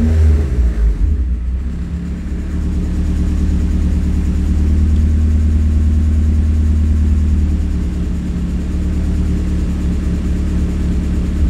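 Turbocharged Honda D16Y8 1.6-litre four-cylinder running steadily, with a strong deep low drone and small rises and falls in level.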